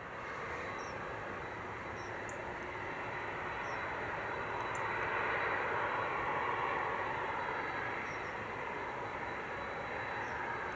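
Jet airliner's engines passing the airfield, a steady rushing roar that swells to its loudest about five to seven seconds in and then eases off.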